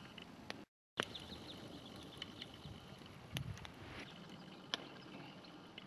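Faint crackling of a wood campfire, scattered sharp clicks and ticks over a quiet background, with a soft low thump about three and a half seconds in. The sound drops out completely for a moment just before one second in.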